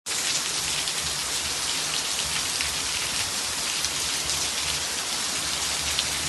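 Steady, calm rain falling without wind or thunder: an even hiss with individual drops ticking through it.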